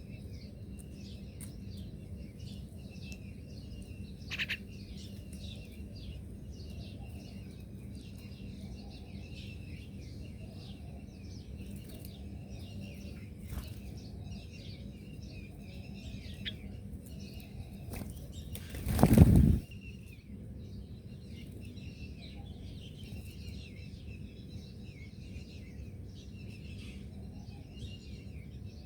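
Small birds chirping almost without pause, many short quick notes overlapping, over a steady low background rumble. About two-thirds of the way through there is one loud rush of noise lasting about a second.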